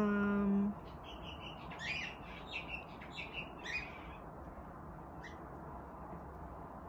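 Birds chirping in short, quick calls, a cluster of them over a couple of seconds and one more a little later, over faint steady background noise. A woman's voice holds one note briefly at the very start.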